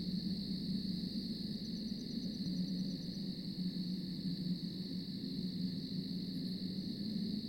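Night-time ambience: a steady high insect chorus over a low steady drone, with a brief faint run of rapid ticking about two seconds in.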